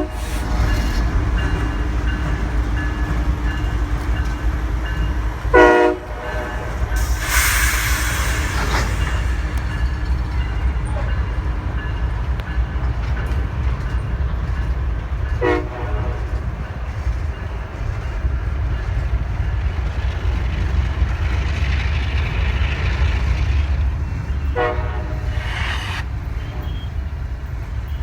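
Diesel freight locomotive running slowly with a steady low engine rumble, giving four short horn blasts: one at the very start, then about 6, 15 and 25 seconds in. There is a brief burst of hiss around 7 to 9 seconds in.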